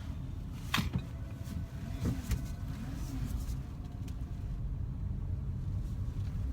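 Car engine running with a steady low hum, and a single sharp click a little under a second in.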